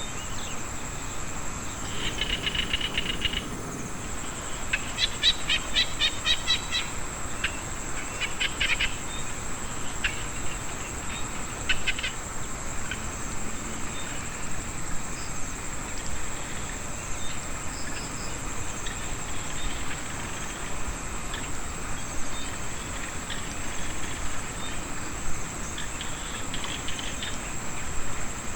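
Rice-field chorus after rain: insects keep up a steady high-pitched trill throughout, and small frogs break in with short bursts of rapid, clicking pulsed calls several times, mostly in the first half.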